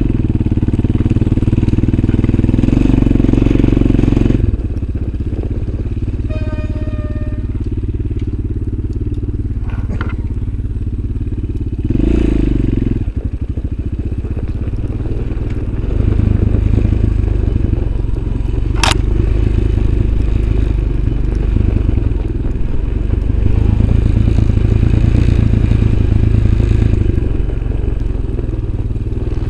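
Motorcycle engine running under load off-road, the revs rising and falling several times as it pulls along.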